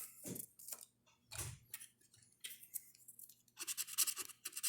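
Scratch-off lottery ticket being scratched: a few short scattered scrapes, then a quick run of rapid scratching strokes from about three and a half seconds in.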